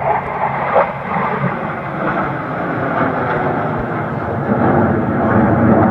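Jet aircraft engine noise: a loud, steady rush that swells about four and a half seconds in.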